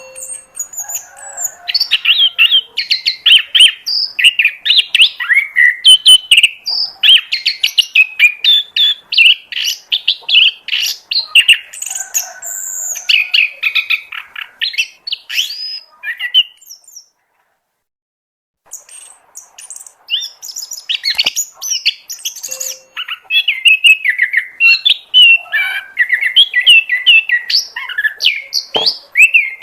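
Oriental magpie-robin (kacer) singing a fast, varied run of whistles and chirps, broken off by a silence of about two seconds past the middle before it sings on.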